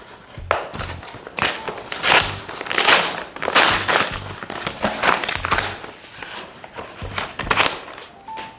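Crinkling and rustling of plastic packaging being handled, in a run of irregular loud bursts.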